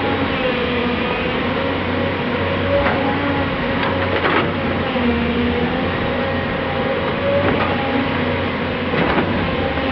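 Heavy diesel earthmoving machinery, excavators and a loaded dump lorry, running steadily with a wavering hydraulic whine. There are a few sharp metal clanks about three, four and nine seconds in.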